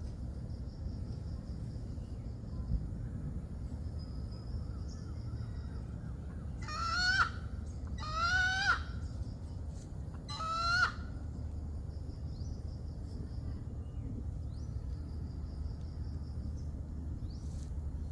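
A chicken calling three times in the middle of the stretch, each call a short, loud squawk rising in pitch, over a steady low background noise. A faint, high, pulsing chirp comes and goes.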